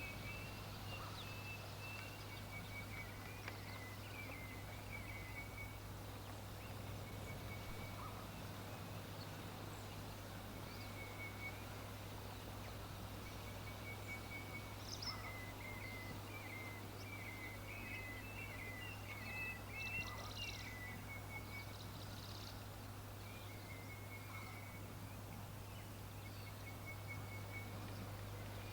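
Songbirds chirping and twittering in short trilled phrases, on and off throughout, with a few higher squeaks in the middle, over a steady low hum.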